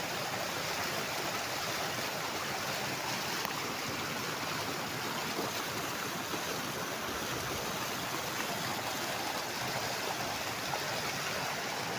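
Mountain stream rushing over rocks in small white-water cascades: a steady, even rush of water.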